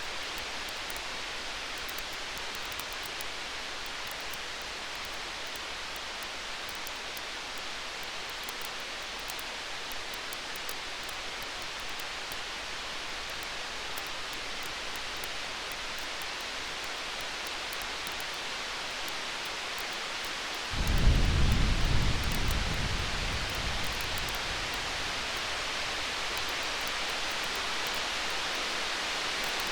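Distant thunder: about two-thirds of the way through, a deep rumble comes in suddenly over a steady hiss and fades away over about three seconds. Faint fire crackles tick lightly in the background.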